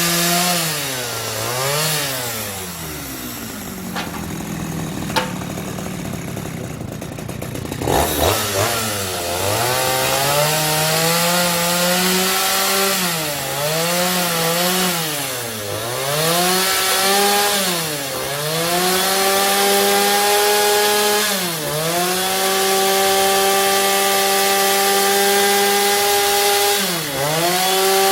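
Power tool cutting timber for hanok rafters: its motor runs at a high, steady pitch that dips and recovers again and again as it bites into the wood. About three seconds in it winds down and runs slow, then speeds up again near the eight-second mark with a short knock.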